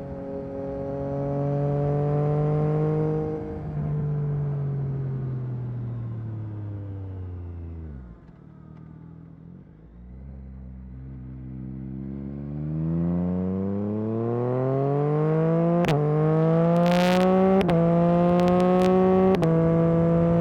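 Yamaha MT-09 SP's three-cylinder engine through an Akrapovic carbon exhaust, its note falling as the bike slows to a low idle about eight seconds in, then rising steadily as it accelerates away. Near the end come quick gear changes.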